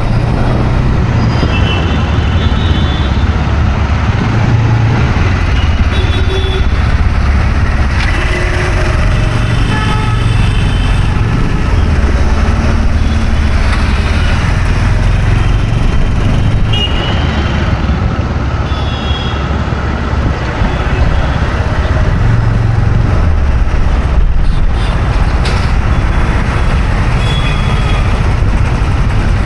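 Busy road traffic, engines running steadily with a heavy low rumble, and short horn toots now and then.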